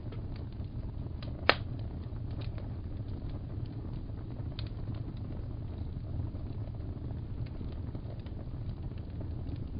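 Wood fire crackling in a fireplace over a steady low rumble, with scattered small crackles and one sharp pop about a second and a half in.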